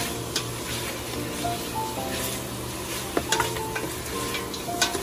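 Pieces of boiled native chicken sizzling in a stainless steel pot as they are stirred with a spatula, the spatula clicking and scraping against the pot a few times.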